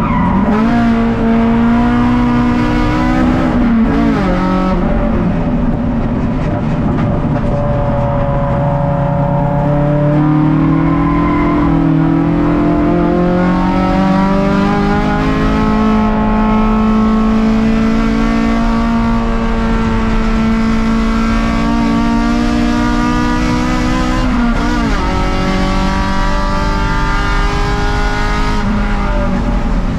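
Race car engine heard from inside the stripped cabin, running hard on track. Its pitch climbs, dips about four seconds in, rises slowly and holds steady for a while, then drops sharply about 25 seconds in before climbing again.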